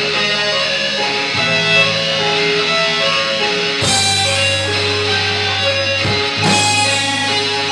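Death metal band playing live: distorted electric guitars hold a slow riff over a low bass drone, with sharp cymbal-like hits a little under four seconds in and again around six seconds.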